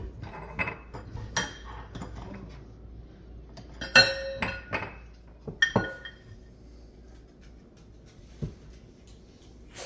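Kitchen dishes and utensils clinking and knocking, with a sharp ringing clink about four seconds in and another just before six seconds.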